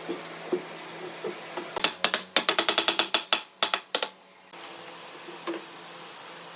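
A quick run of sharp knocks on wood, about five a second for roughly two seconds, that stops abruptly.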